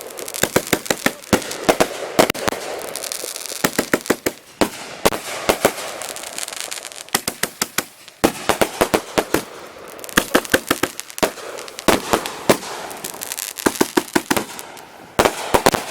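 Consumer multi-shot firework cakes firing: rapid volleys of sharp bangs, several a second, in clusters with short lulls between them, over a steady crackle.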